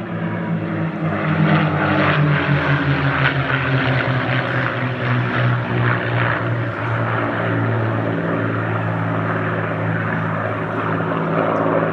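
Piston-engined propeller warbird flying a display, a steady engine drone whose pitch sinks slightly over the first few seconds.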